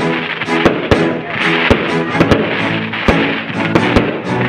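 Aerial fireworks shells bursting in a string of sharp bangs at uneven intervals, about nine in four seconds, some coming close together, heard over steady music.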